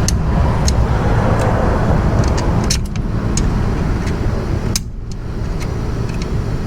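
Steady low rumble with scattered light metal clicks and clinks as parts are worked loose on a motorcycle being stripped down. The rumble drops out briefly about three and five seconds in.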